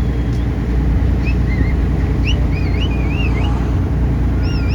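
Taxi boat's engine running steadily under way, a low rumble with wind and water noise. A few short, high, warbling whistles come and go over it in the second half.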